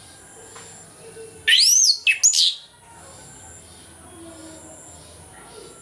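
Orange-headed thrush singing one short, loud phrase of clear whistled notes that sweep up and down, about a second and a half in. A faint, steady high whine sits in the background.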